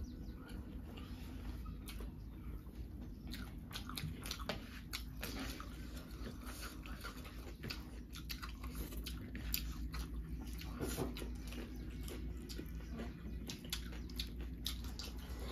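A person chewing and biting into pork, with many short, irregular mouth clicks.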